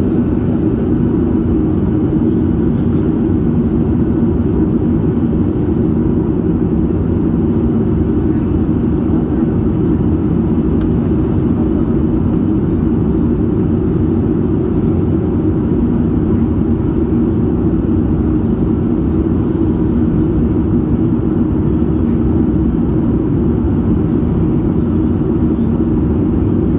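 Cabin noise inside a Boeing 737 MAX 8 descending: a steady low rumble of airflow and its CFM LEAP-1B engines, with a faint hum of steady tones.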